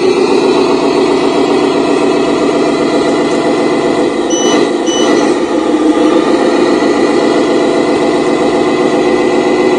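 Truck engine running steadily at a low, even pace, with two short high beeps about half a second apart a little before the middle.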